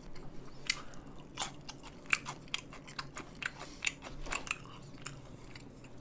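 Close-miked chewing of grilled beef brisket, a string of short, irregular mouth clicks.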